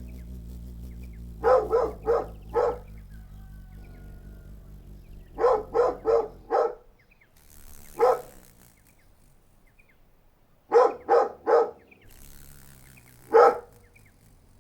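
A dog barking in quick runs of three or four short barks, with single barks between, over a low steady hum that cuts off about halfway through.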